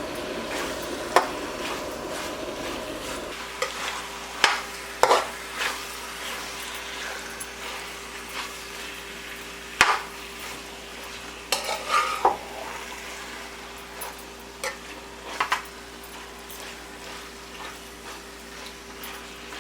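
Curry-marinated chicken pieces sizzling in hot oil in a pot as they are stirred, with sharp knocks of the spoon against the pot every few seconds.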